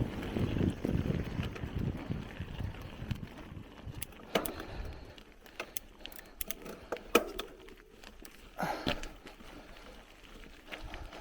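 Bicycle ridden along a forest trail: a low rumble of tyres and wind for the first five seconds, then quieter, with scattered sharp clicks and rattles from the bike.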